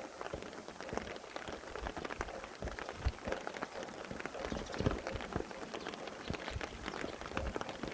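Steady rain falling, with many separate drops heard striking a surface.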